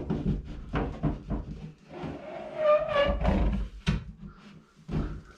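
Knocking, clunking and rustling of electrical cable being worked through a wall cavity, with a short pitched sound about three seconds in.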